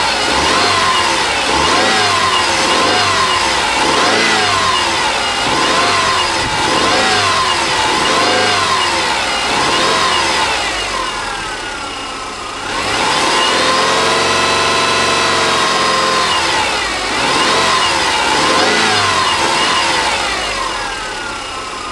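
Rebuilt Subaru EJ25 2.5-litre flat-four revved in repeated quick throttle blips, held up at higher revs for a few seconds about halfway through, then blipped again. It runs without knocking: the knock it used to make only when revved is gone after the rebuild.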